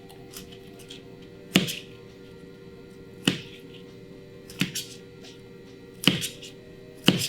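Kitchen knife cutting broccoli florets off the stem, hitting the cutting board with a sharp knock every second or so, six times in all. Faint steady music plays underneath.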